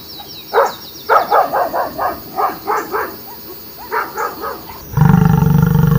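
Dog barking in quick, short barks that come in clusters. About five seconds in, a much louder, steady, low-pitched sound with a held tone cuts in and takes over.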